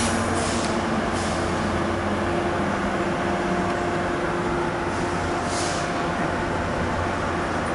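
Metro-North diesel-hauled passenger train running at a station: a steady low engine rumble and hum, with short hisses of air a few times in the first second and once more a little past halfway.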